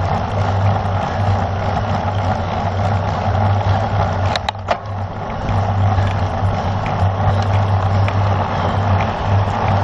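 Wind rushing over the microphone of a camera on a bicycle ridden at race speed, with a steady low rumble. It eases for a moment about four and a half seconds in, where a couple of sharp clicks sound.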